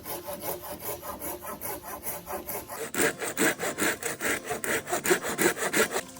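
A saw cutting with quick, regular back-and-forth strokes, about four a second. The strokes grow louder about halfway through and stop near the end.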